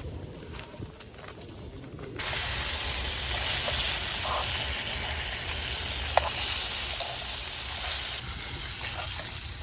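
A steady hiss starts abruptly about two seconds in and holds at an even level, with a few faint clicks over it.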